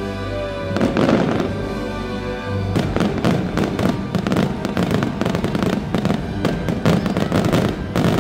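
Fireworks bursting over the show's music, a few loud bursts at first and then a dense, rapid run of sharp bangs and crackle from about three seconds in.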